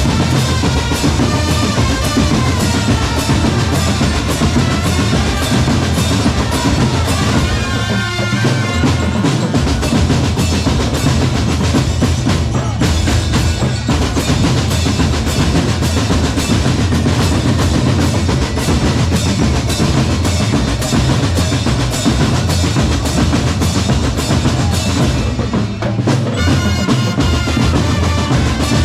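Marching drum band playing: bass drums and snare drums beating steadily with rolls, and a melody over them at times.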